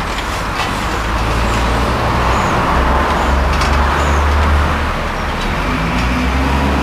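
Unrestored 1914 Garrett 4CD road tractor's steam engine being run on compressed air instead of steam: a steady hiss over a low hum, with a few faint clicks.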